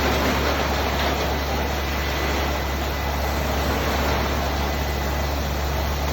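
Automatic car wash machinery running: a steady, even rush of noise over a constant low hum, with a faint steady whine.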